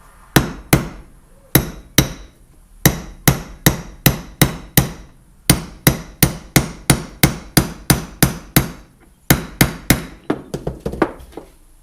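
Hammer tapping a greased seal into a Minn Kota trolling motor's housing until it is seated. About thirty sharp strikes, roughly three a second, come in several runs with short pauses, ending in a quick flurry of lighter taps.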